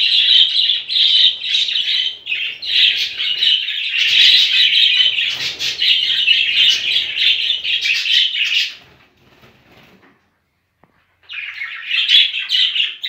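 Budgerigars chattering and chirping in a dense, continuous stream. The chatter breaks off for about two seconds past the middle, then starts again.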